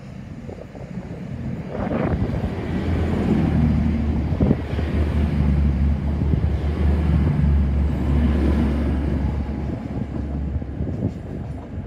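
CrossCountry Voyager diesel multiple unit passing along the platform without stopping. A rush of noise arrives about two seconds in as the front reaches the microphone, then the steady low drone of its underfloor diesel engines holds while the coaches go by, easing off near the end.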